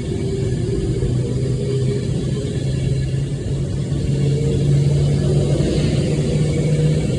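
Class 390 Pendolino electric train pulling away, its motors humming under a steady rumble, the hum slowly rising in pitch as it gathers speed.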